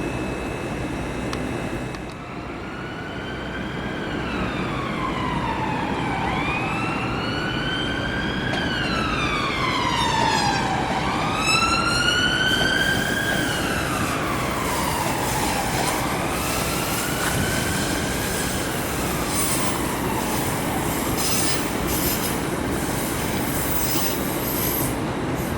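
Electric train's traction whine, a tone that keeps gliding up and down in pitch every couple of seconds over the rumble of the train moving through the platform. Short rattles come in near the end.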